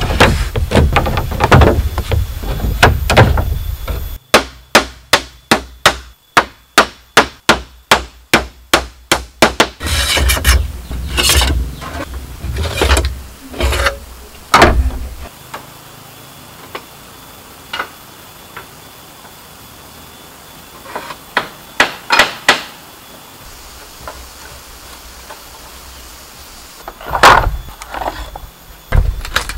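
Bamboo being struck with a tool during building work: a steady run of sharp knocks, about three a second for several seconds, then scattered single knocks, with a few loud knocks again near the end.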